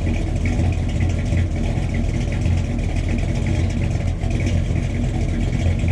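Chevy Cheyenne pickup's 454 big-block V8 idling, a steady low rumble.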